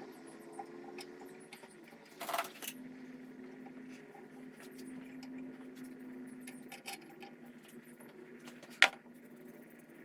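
Small metal clinks and clicks of hand tools and parts being handled while a carburetor is refitted to a small engine. There is a short rattle about two seconds in and one sharp click near the end.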